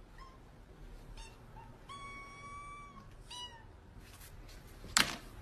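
Kittens meowing faintly: several short, high meows and one longer held meow about two seconds in. Near the end comes a single sharp click.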